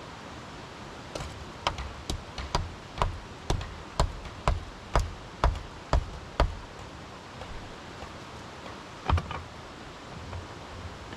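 A run of sharp knocks, about two a second, growing louder and stopping about six and a half seconds in, then a quick double knock a little later.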